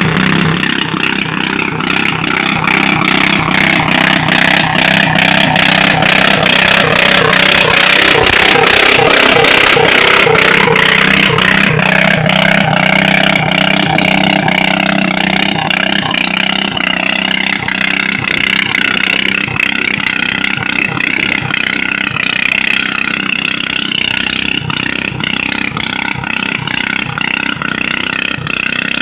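Pulling garden tractor's engine running hard at high revs through a pull, a loud continuous rasping drone whose pitch wavers up and down. It is loudest near the middle and eases slightly toward the end.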